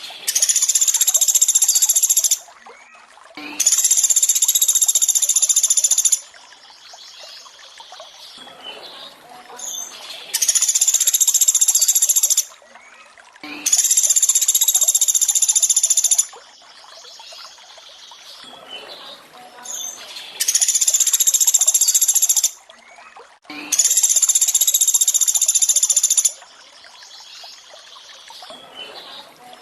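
Pelatuk beras (small woodpecker) calls looped as song-training material. Six loud, high-pitched call bursts of about two seconds each come in pairs a second or so apart. A steady trickling-water sound runs underneath.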